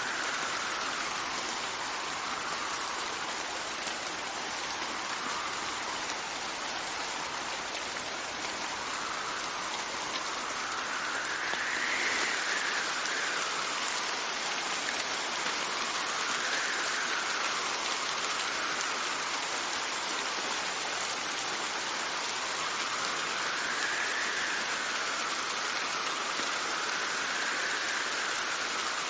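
Steady heavy rain hissing, with gusts of wind that whistle and fall away in pitch every few seconds.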